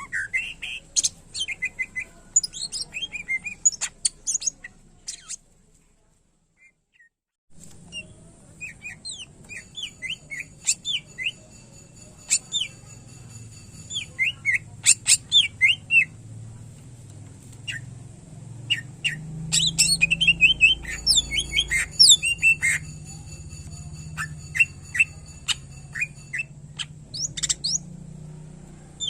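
Greater green leafbird (cucak ijo) singing a fast, varied run of sharp chirps and gliding whistle notes. The song breaks off for about two seconds around six seconds in, then resumes denser, over a steady high tone and a low hum.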